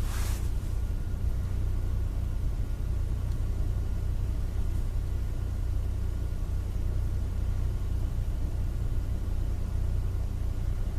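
Car driving along, heard from inside the cabin: a steady low rumble of engine and road noise, with a short rush of noise at the very start.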